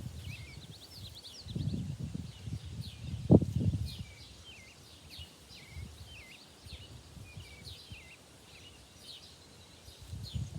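Small birds chirping repeatedly, over irregular low crunching thuds in the first few seconds, the loudest a sharp thump about three and a half seconds in. No chainsaw is running.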